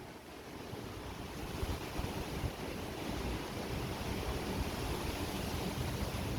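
Steady rushing noise with irregular low rumbling gusts, like wind buffeting the microphone.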